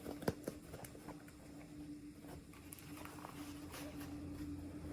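Scattered light clicks and taps of hands handling small plastic packaging and toy pieces, one sharper click about a third of a second in, over a steady low hum.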